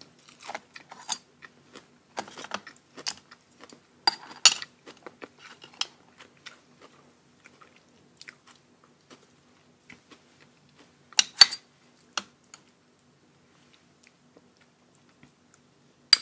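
A person chewing and crunching a mouthful close to the microphone: raw oyster eaten with fresh leucaena shoots. Many small wet crunches, with the loudest bites about 4 seconds and 11 seconds in, thinning out near the end.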